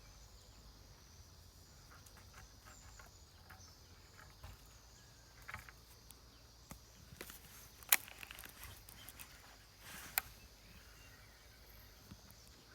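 Quiet outdoor ambience: a faint steady insect hiss with scattered light rustles and ticks, and two sharper clicks about eight and ten seconds in.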